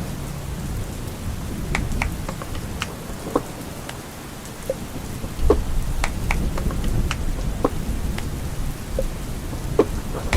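Steady rain with scattered drops tapping, and a low rumble of thunder that comes in about halfway through.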